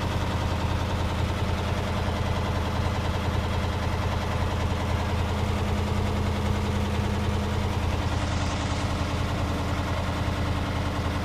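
Arçelik washing machine running with a steady low hum and a fast, continuous rattle. The owner treats the noise as a fault that has come back after three repairs.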